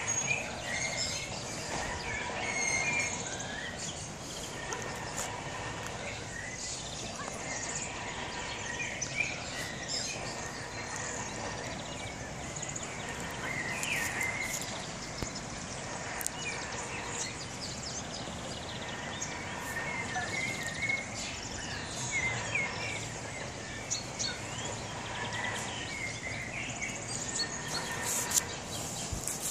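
Birds chirping here and there over a steady outdoor background noise.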